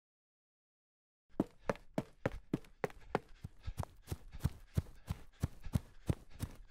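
Running footsteps on grass and dry leaves, a quick, even thud about three times a second, starting about a second and a half in.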